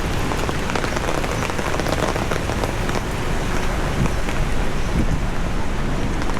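Heavy rain falling steadily, with a dense scatter of small drop hits over a low rumble.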